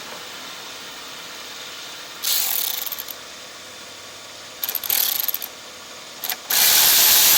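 Compressed-air tool fired in three short bursts, the first two fluttering and dying away, then held on in a steady loud hiss of air near the end.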